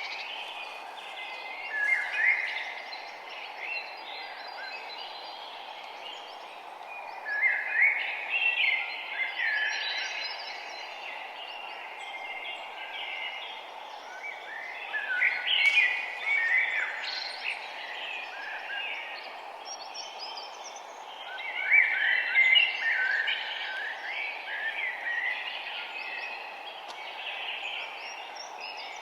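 Songbirds singing: four loud bursts of fast chirping, twittering song come a few seconds apart, with quieter chirps between them. A steady background rush of noise runs underneath.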